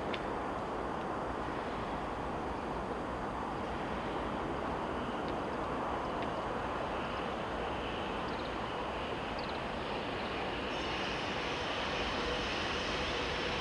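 Train running through with a steady rumble of wheels on rail; a steady whine joins about eleven seconds in and the sound grows a little louder.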